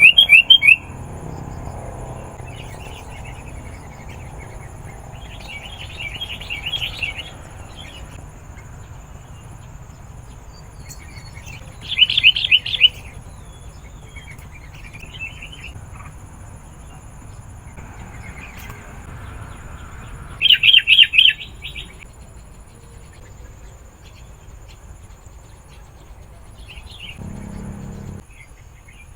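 Sooty-headed bulbul calling: three loud bursts of quick chattering notes, near the start, about twelve seconds in and about twenty-one seconds in, with softer calls between them.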